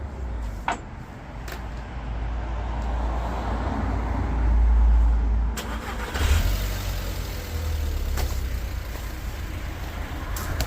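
Audi TT's 1.8-litre turbocharged four-cylinder (BAM) engine starting and running at idle, with no knocking or unusual noise. This sounds like an engine still healthy after losing a lot of oil.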